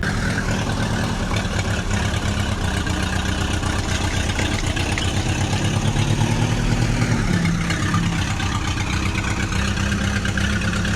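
Tractor engine running steadily with a rapid, even chugging, its pitch dipping slightly about seven seconds in.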